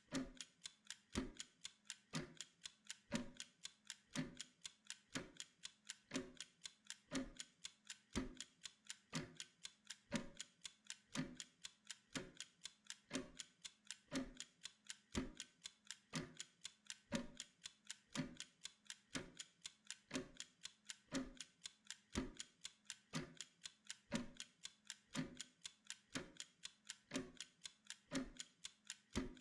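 Mechanical Pomodoro timer ticking steadily, about two ticks a second with a tick-tock alternation of stronger and weaker clicks.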